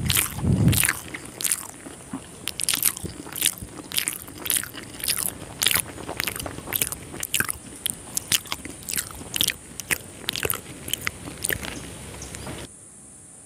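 Chewing a mouthful of rice and egg curry: wet mouth clicks and smacks, about two or three a second, which cut off suddenly near the end.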